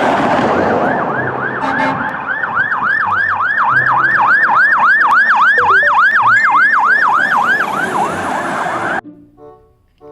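Fire-service car siren in a fast yelp, rising sweeps repeating about three or four times a second over a rushing hiss, then stopping abruptly near the end.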